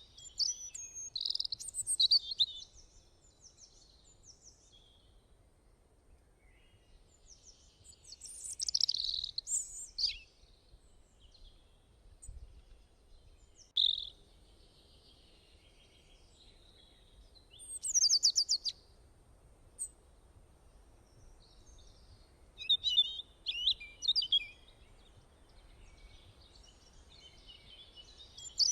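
Songbirds chirping and singing in short, high-pitched phrases every few seconds, with quiet pauses between them.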